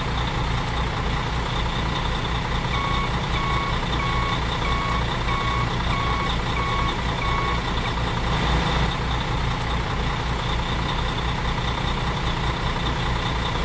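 Truck engine running with a steady low pulsing rumble, while a reversing alarm beeps about eight times, roughly one and a half beeps a second, from about three seconds in to about halfway through.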